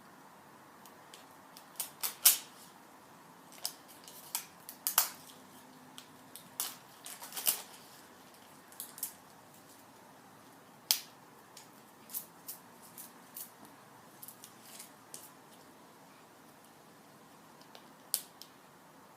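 Hands opening the small wrapped packages of a LOL Surprise Pets toy: irregular sharp crackles and clicks of packaging being handled and torn, loudest in a cluster over the first eight seconds and once more near the middle.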